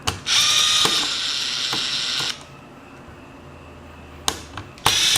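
Small electric screwdriver running in two bursts, about two seconds and then half a second, while screws holding the wireless card are taken out, with a few light clicks in between.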